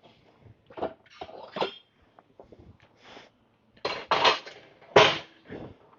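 Metal clinks and clanks of gym equipment being handled while a T-bar row machine is set up, several short knocks with the loudest two near the end.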